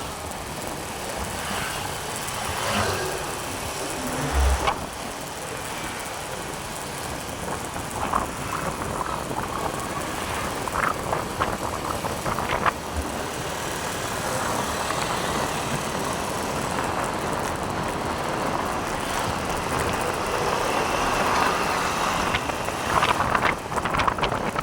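Steady road and wind noise from a motorcycle ride, with wind on the microphone and a few scattered knocks.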